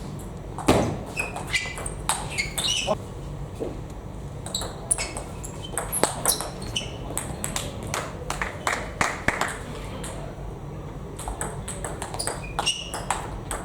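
Table tennis balls clicking sharply and irregularly off bats and table, with a few short high squeaks.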